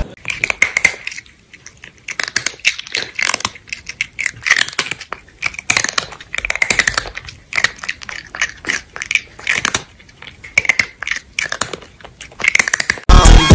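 Crunchy chewing and munching: irregular clusters of crisp crackles and crunches. Dance music cuts back in loudly near the end.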